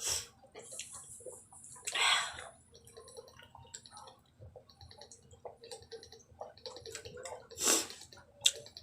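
Close-up wet eating sounds: chewing and smacking with many small clicks, and two louder wet noises, one about two seconds in and one near the end.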